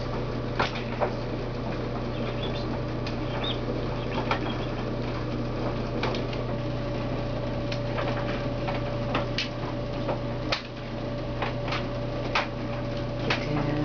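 Kittens playing on a hard floor: scattered light taps, clicks and scuffles at irregular times over a steady low hum.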